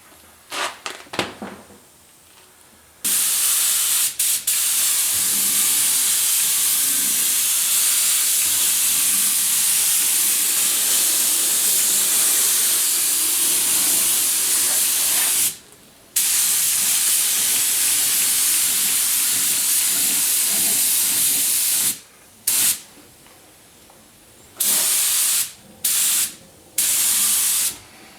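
Aerosol spray can of low-gloss clear coat hissing in long passes, stopping briefly and starting again, then a few short bursts near the end as the clear is misted onto a painted repair. A few short clicks come just before the spraying begins.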